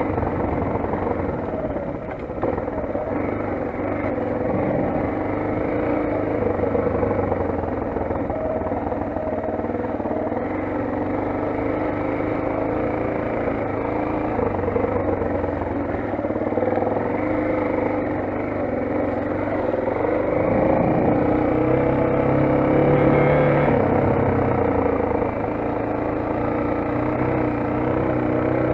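Motoland XR 250 enduro motorcycle's 250 cc engine running under way, its pitch rising and falling as the rider works the throttle.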